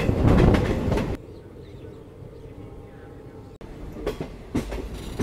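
Passenger train coaches running at speed, heard from an open doorway: loud wheel and track noise that drops suddenly to a quiet rumble about a second in. Clacks of the wheels over rail joints return near the end.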